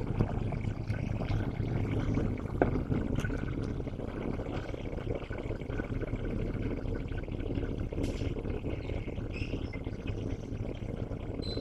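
Diesel locomotive engine running with a steady low rumble during a slow coupling move, with a single sharp knock about two and a half seconds in.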